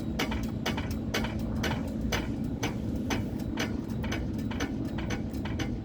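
A hand-shaken US&S teardrop railroad crossing bell, its striker tapping in quick clicks about four times a second without building into a full ring, over a low rumble of background traffic.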